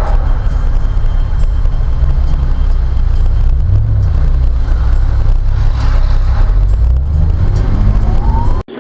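A car driving, recorded from inside it: a loud, steady low rumble of engine and road noise. It cuts off suddenly near the end.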